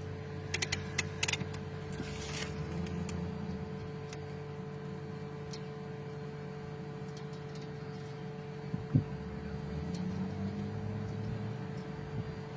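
A machine running with a steady low hum and a steady tone above it, with a few sharp clicks in the first second or so and a single sharp knock about nine seconds in.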